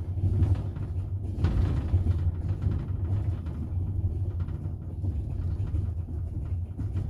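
Double-deck passenger train running along the track, heard from inside the carriage: a steady low rumble of the wheels on the rails, with a brief louder rush about a second and a half in.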